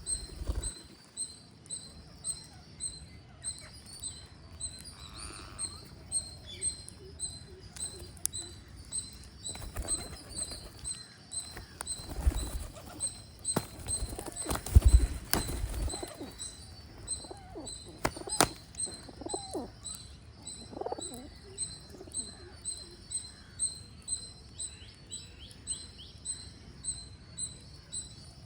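Birds feeding: one high chirp repeating steadily almost twice a second throughout, with wing flaps and knocks around the middle and a few lower falling calls after them.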